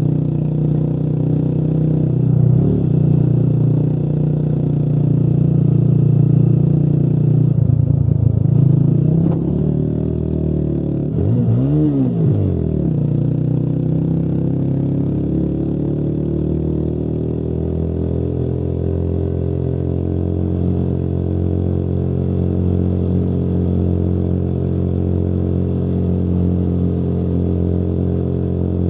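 Motorcycle engine running while riding. The revs drop and climb again sharply about halfway through, then hold a steady, slowly rising note.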